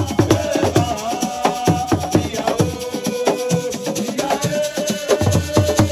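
Assiko percussion music: fast hand drumming with shakers rattling, over a held melodic line that steps up and down in pitch.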